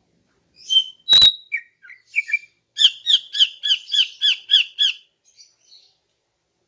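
Female greater green leafbird (cucak ijo) calling: scattered chirps and a short harsh burst about a second in, then a fast run of about eight repeated down-slurred notes at around four a second, trailing off into faint notes.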